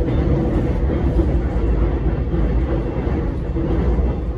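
Alstom X'Trapolis electric train running along the track, heard from inside the carriage: a loud, steady low rumble of wheels and running gear, with a faint steady hum above it.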